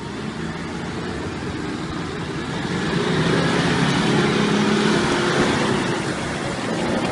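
Vehicle engine running hard under load during a tug of war between a Toyota Fortuner and a truck. It gets steadily louder, peaks about three to five seconds in, then eases off a little.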